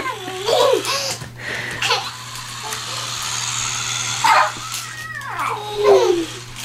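Young children's voices: short squeals and babbling cries that slide up and down in pitch, a few at the start and a longer run in the second half.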